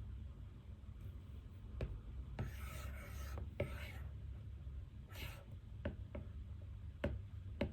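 Pen writing on paper in short scratchy strokes, with several light clicks between the strokes, over a low steady room hum.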